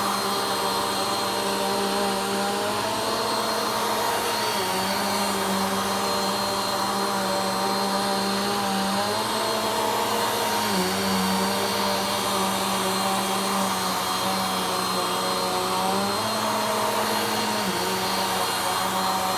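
Vacuum cleaner running steadily while being pushed slowly back and forth over the floor; its motor hum shifts slightly in pitch every few seconds as the load changes with each stroke.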